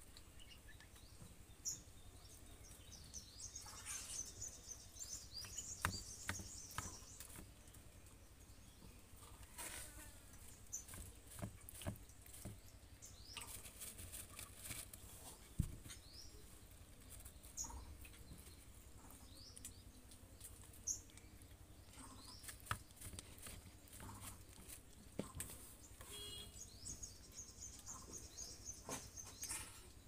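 Faint, high-pitched bird chirps in quick series, a few seconds in and again near the end, over scattered soft clicks and rustles.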